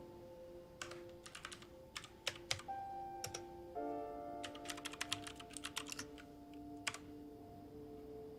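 Typing on a computer keyboard in several short bursts of key clicks, over soft background music with held notes.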